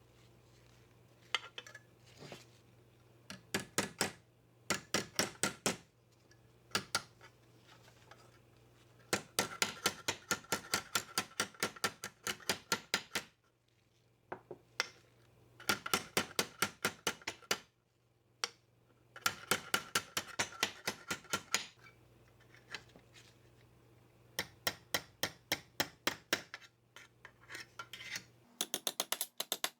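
Runs of sharp metallic clicks, several a second, with short pauses between the runs, over a steady low hum.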